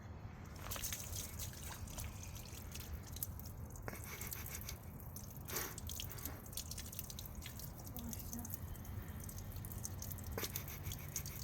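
Water dripping and splashing in irregular small drops as a muddy toy truck is washed off.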